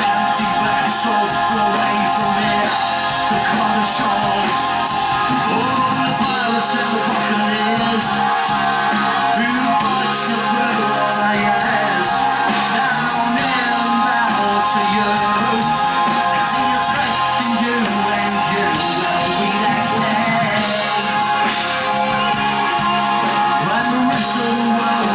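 Progressive rock band playing live: a full, steady band sound with guitar and singing.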